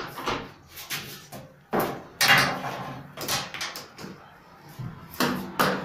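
Irregular knocks, clicks and short rattles of hard parts being handled and set down, with a few louder strikes.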